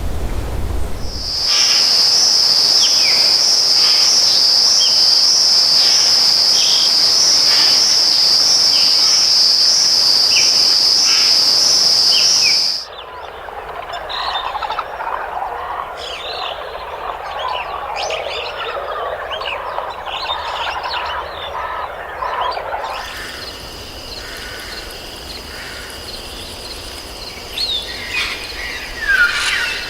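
Rainforest wildlife sounds: a loud, steady, high-pitched insect drone over scattered bird chirps cuts off suddenly about 13 s in, giving way to a dense chorus of short chirping calls from frogs and birds. Near the end a fainter high drone returns under more bird calls.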